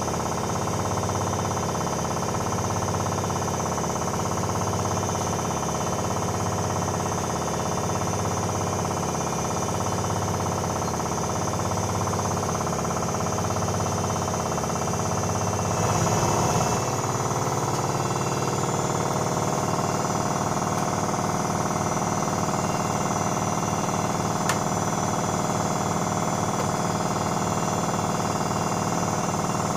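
Privileg Sensation 9245 washing machine running: a steady motor hum with a low throb about once a second. A bit past halfway there is a brief louder surge, and then the hum settles into a different steady note without the throb.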